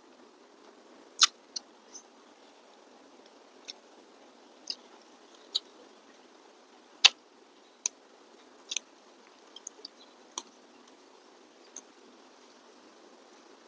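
Eating sounds: about a dozen sharp, irregular mouth clicks and smacks of chewing, the loudest about a second in and about seven seconds in, over a faint steady hiss.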